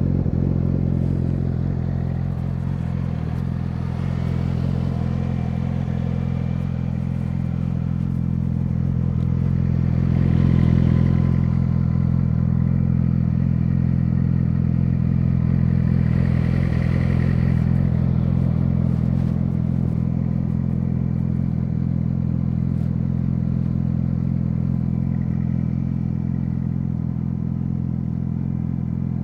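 Yamaha YZF-R6's inline-four engine, breathing through an SC-Project SC1-R aftermarket exhaust, idling steadily at an even pitch.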